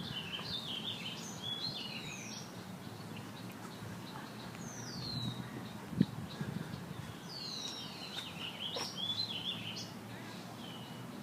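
Songbirds singing and chirping, many short whistled phrases sweeping down in pitch, over a low outdoor rumble. About six seconds in there is a single sharp knock.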